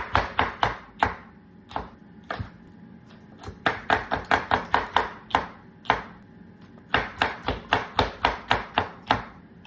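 Kitchen knife chopping food on a cutting board, rapid strokes of about five a second in three quick runs, with a pause and a couple of single strokes between them.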